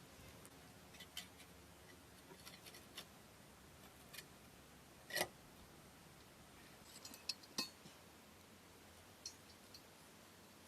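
Near silence broken by scattered small clicks and taps, the loudest about five seconds in and a quick group of them a couple of seconds later.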